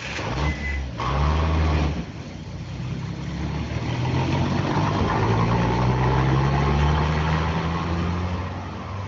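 Car engine pulling away and accelerating. Its pitch climbs and breaks twice in the first two seconds like gear changes, then rises slowly through a longer pull before easing off near the end.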